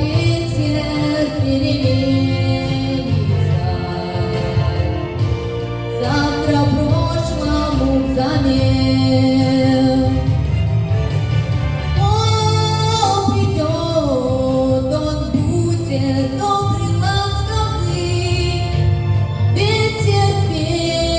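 A female voice singing a melody with held notes over an instrumental backing track with a full, continuous bass.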